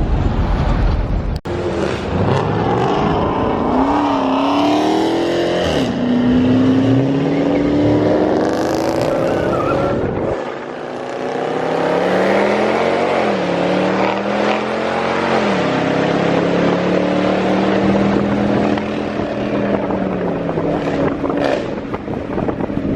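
Car engine accelerating hard, its pitch climbing and then dropping back again and again as it shifts up through the gears, with a couple of abrupt jumps in the sound.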